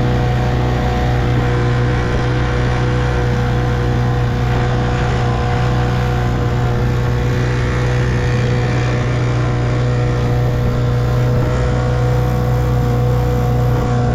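1958 Evinrude 3 hp two-stroke outboard motor running at a steady speed, pushing a small boat along.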